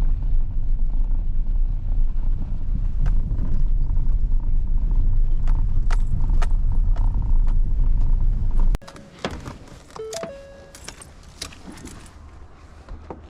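A heavy, steady low rumble, like a vehicle running, cuts off abruptly about nine seconds in. A much quieter outdoor background with scattered sharp clicks and a brief stepped, pitched call follows.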